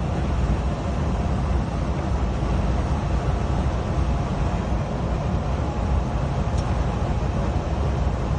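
Scania R410 Streamline truck driving at a steady speed: its 13-litre six-cylinder diesel running with a steady low drone, mixed with road noise, with no change in pitch.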